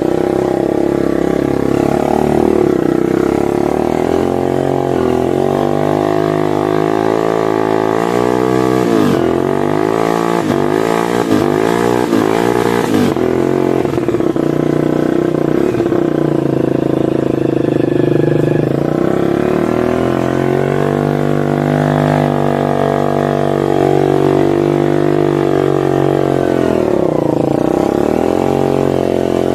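Oil-palm hauling motorcycle's engine revved hard under load, its pitch rising and falling again and again, with a stretch of quick rev swings about a third of the way in and another near the end.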